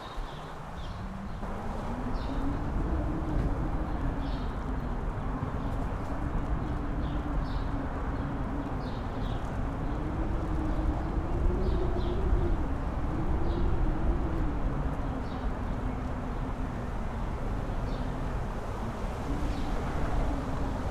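Strong wind gusting on a mountain top, with deep buffeting on the microphone and a wavering low howl that rises and falls. Short faint high chirps come through the wind every second or two.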